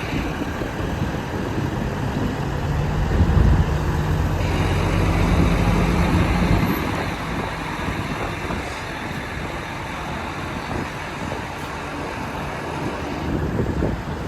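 Heavy truck engine running with a low drone that swells for a few seconds and then drops away about seven seconds in, leaving steady traffic noise.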